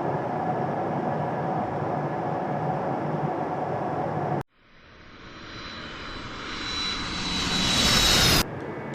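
Steady drone of an airliner for about four seconds, cut off abruptly. Then jet aircraft engines grow steadily louder with a high whine until they too cut off suddenly.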